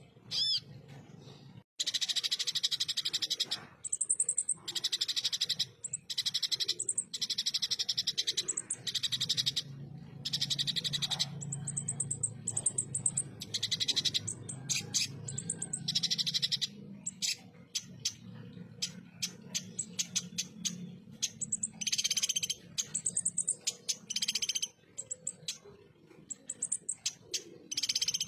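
Konin (kolibri ninja) sunbird singing a harsh rapid-fire 'tembakan kasar' song: high, rattling bursts about a second long, repeated with short gaps, over a faint low hum.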